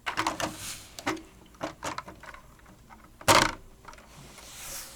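Plastic LEGO pieces clicking and knocking as a built set is handled: a cluster of light clicks in the first two seconds, then one louder knock a little past the middle.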